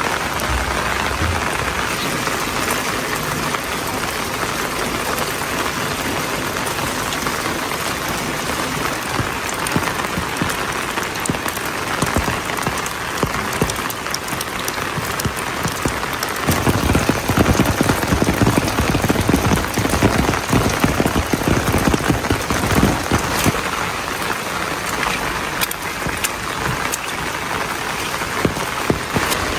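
Steady rain falling, an even hiss of drops. About halfway through it grows louder and heavier for several seconds, with more distinct drops striking close by, then eases back to the steady fall.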